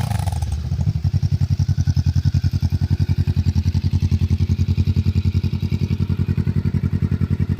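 Kawasaki Ninja 650's parallel-twin engine and exhaust dropping back from a rev and settling to a steady idle, with an even, loping exhaust beat.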